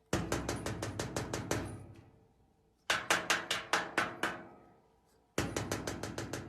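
Rapid knocking on a hard, resonant surface: three bursts of about six strikes a second, each burst dying away with a ringing tone.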